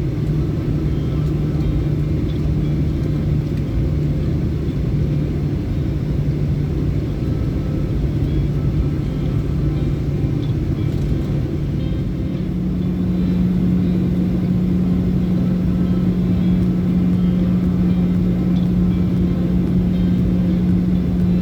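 Boeing 737-800's twin CFM56 jet engines running, heard inside the cabin as a steady rumble with a low hum. About twelve seconds in, the hum steps up in pitch and gets a little louder as engine power increases.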